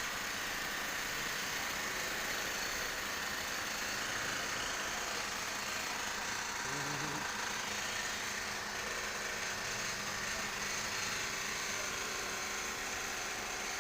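A small motor running steadily, with a brief low hum about seven seconds in.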